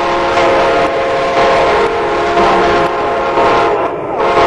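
Amtrak passenger train's air horn blaring as the train approaches, a chord of several steady tones over the noise of the moving train. The horn breaks off briefly near the end and then sounds again.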